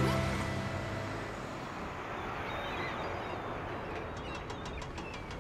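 Outdoor ambience with small birds chirping over a steady background noise, after a short music chord that fades in the first half-second. A quick run of faint clicks comes about four seconds in.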